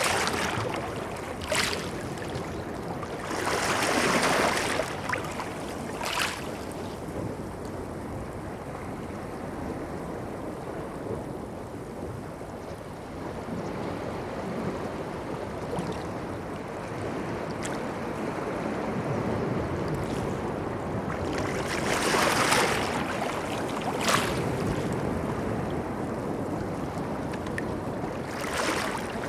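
Sea waves washing onto a beach over a steady surf rumble, with two bigger waves swelling and breaking, one about four seconds in and one past the middle, and a few brief sharp splashes.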